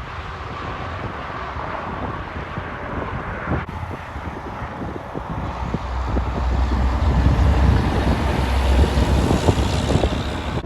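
A heavy truck approaching and passing close by, its low engine rumble and tyre hiss growing louder about halfway through, with wind buffeting the microphone.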